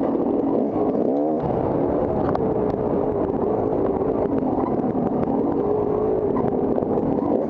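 Dirt bike engine running steadily, its pitch wavering quickly up and down for a moment about a second in, with a few light clicks and knocks.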